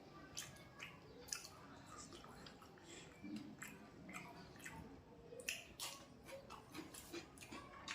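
A person chewing and lip-smacking while eating, heard as irregular small wet clicks and smacks.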